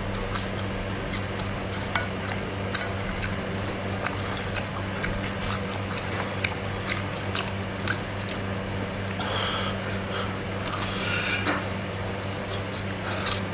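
Eating sounds: scattered short clicks of chewing and of utensils against dishes, over a steady low hum, with a stretch of hiss-like rustling a few seconds before the end.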